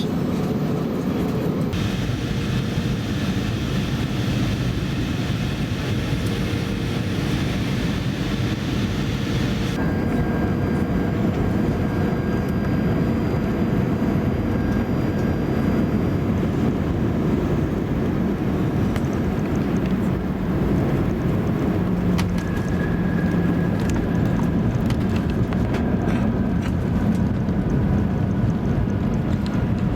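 Airbus A320 cabin noise: jet engines and rushing air heard from inside the cabin during final approach and landing, a steady low-pitched rumble. The sound shifts abruptly about two and ten seconds in.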